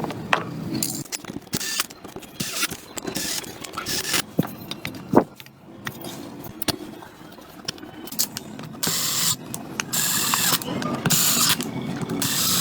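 Workshop tool sounds on motorcycle parts: scattered sharp metallic clicks and knocks, with ratchet-like clicking. In the second half come four short hissing bursts about a second apart.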